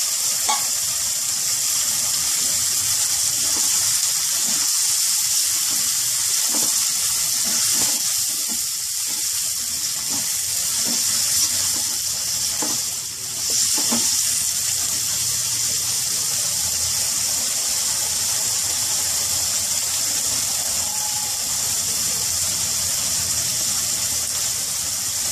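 Chicken gizzards sizzling in hot oil in a steel kadai, a steady high hiss. Partway through, a spoon knocks against the pan a few times as the pieces are stirred.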